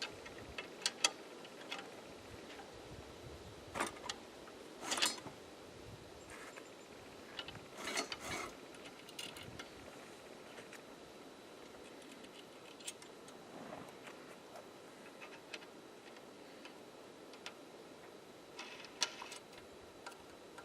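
Scattered metal clicks and clinks of bolts, washers and star nuts being fitted by hand on a gas cultivator's frame, irregular and sparse, with a few louder knocks.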